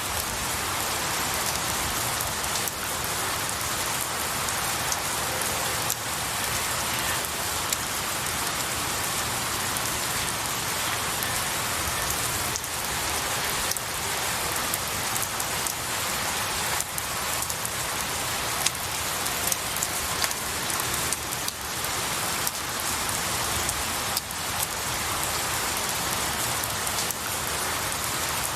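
Steady rain falling on pine needles and trees: a dense, even hiss with many individual drops pattering through it.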